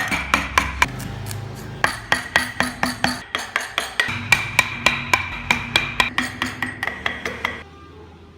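Rapid, evenly spaced sharp knocks, about four a second, each with a ringing tone, over a low hum; they stop abruptly near the end.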